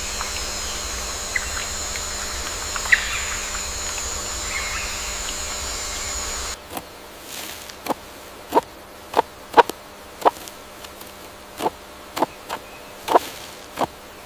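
Natural ambience: a steady high-pitched insect buzz with a few short bird chirps. About six seconds in it cuts off suddenly, giving way to a quieter background broken by about a dozen short, sharp, irregularly spaced calls or clicks.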